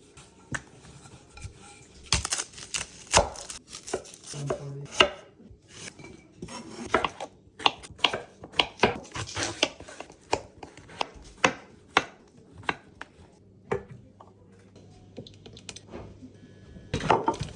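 Knife chopping on a cutting board in irregular strokes, mixed with the clatter of kitchen utensils and dishes. The strokes come thickly for most of the stretch, thin out, then bunch up again near the end.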